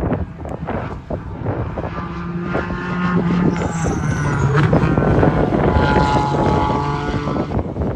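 A race car at speed passing by on the track: its engine note builds from about two seconds in, is loudest just past the middle and falls in pitch as it goes by, with wind buffeting on the microphone.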